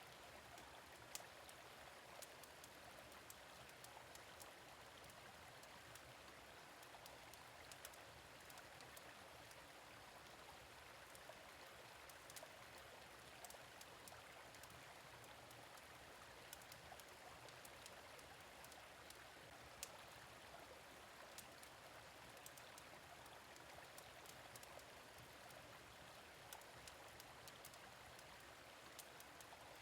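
Faint, steady rush of a gentle stream, with scattered small crackles and pops from a wood fire in a fire pit.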